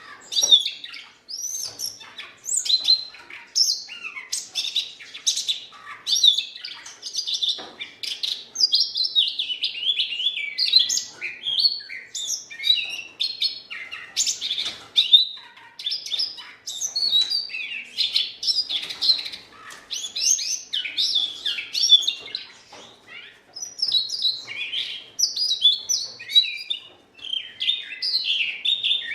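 Siberian rubythroat singing: a long, rapid, varied warble of chirps and whistles, phrase after phrase with only brief pauses.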